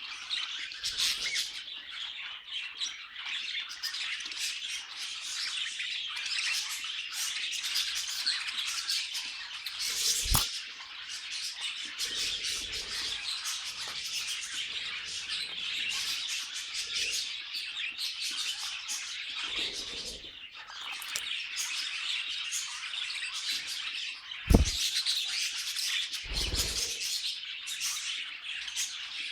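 Budgerigars chattering and warbling, a steady stream of quick chirps and squawks, with a few sharp knocks and soft thumps in between.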